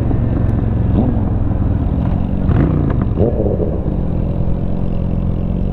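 V-twin engine of a Honda Shadow 750 motorcycle with an aftermarket Rinehart exhaust, running under way. Its pitch rises briefly a couple of times about halfway through as the bike accelerates.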